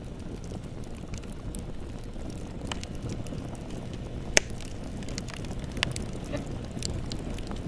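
Bonfire crackling: a steady low rumble of burning wood with scattered sharp pops and snaps, the loudest a single pop a little past the middle.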